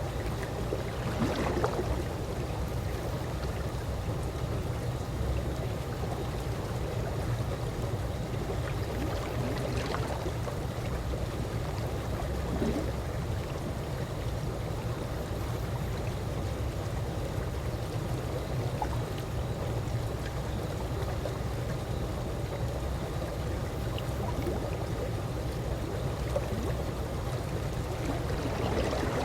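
Calm pool water lapping gently, with soft splashes now and then, for example at about 1.5 and 10 seconds in, over a steady low wash.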